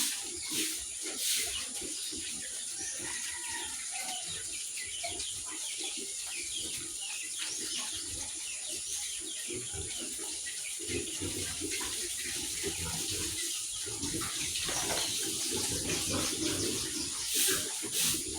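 Running water hissing steadily, with birds chirping and a few sharp clicks near the start and end.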